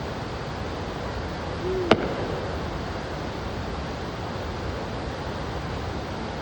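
A single sharp firework bang about two seconds in, over a steady rushing background noise.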